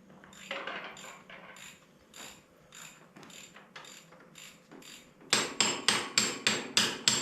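A socket ratchet clicking as a head bolt is worked on a Ford 8N engine. About five seconds in, a loud run of sharp, ringing hammer blows on metal starts, about four a second; these are the loudest sounds.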